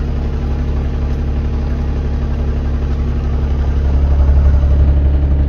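Engine of heavy farm machinery running steadily at low revs, getting a little louder about four seconds in.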